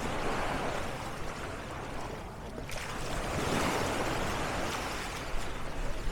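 Sea waves washing onto the shore, the wash swelling twice and falling back.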